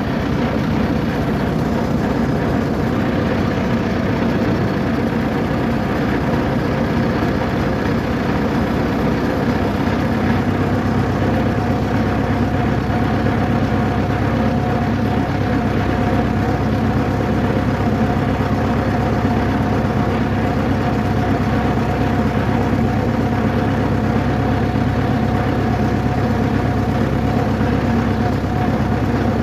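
Steady engine and road noise of a moving vehicle, an even hum with a faint held tone that runs on unchanged.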